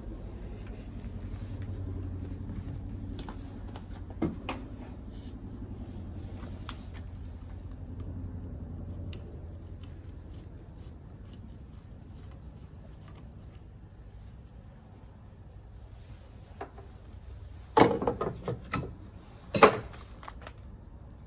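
Hand tools and engine parts being handled: a few light clicks, then a cluster of sharp metallic knocks and clinks near the end, over a low steady hum.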